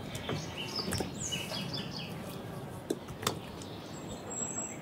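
Birds chirping in short, high calls, with a few light clicks or taps.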